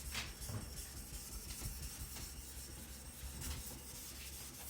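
Steel chopper blade rubbed back and forth on a wet Naniwa Professional 1000 whetstone, a soft gritty scraping in a series of strokes; the stone is soft and loaded with mud.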